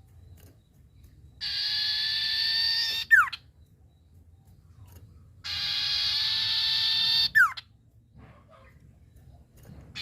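A sirtu bird calling twice. Each call is a steady, rasping note about a second and a half long, ending in a quick downward-sliding note.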